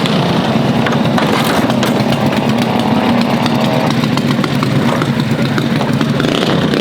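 Small mini bike engine running at a steady speed, with a crackly exhaust.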